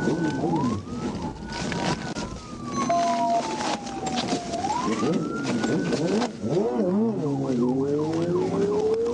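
Police car siren sounding in slow rising and falling wails, switching about six seconds in to a fast yelp, over the cruiser's engine and road noise during a high-speed pursuit. Near the end the engine note climbs steadily as the car accelerates.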